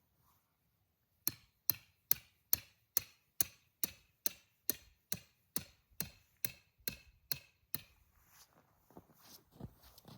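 Tent peg being hammered into the ground, with about sixteen sharp, evenly spaced strikes of roughly two and a half a second. Each strike rings briefly like metal. The strikes start about a second in and stop near the end.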